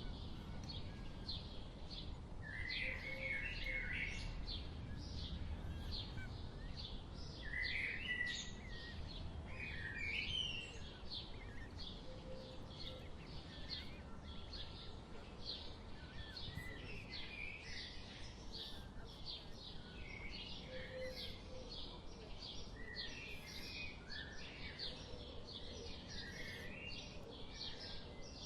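Small birds calling: a rapid, continuous series of short high chirps, with lower warbled phrases now and then, over a steady low rumble of outdoor background noise.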